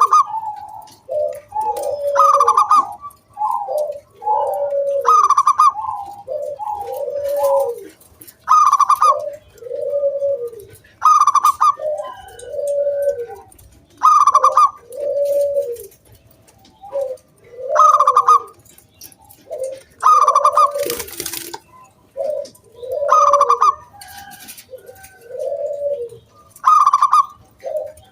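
Zebra dove (perkutut) singing its cooing song. Each phrase runs a few lower coos into a louder, higher, ringing 'kung' note, and the phrase repeats about every three seconds.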